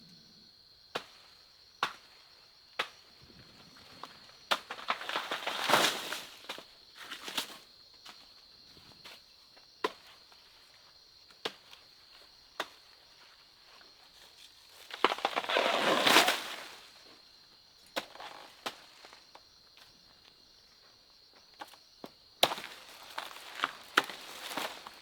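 Irregular sharp knocks and clicks, with two longer stretches of rustling and scraping, the louder one about two-thirds of the way in. A steady high-pitched drone, like insects, runs underneath.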